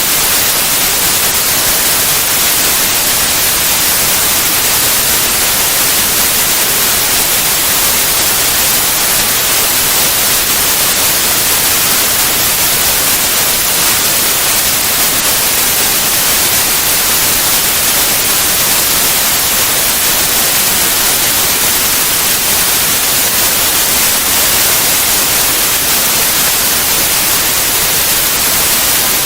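Steady white noise, an even hiss across all pitches, strongest in the highs, with no change.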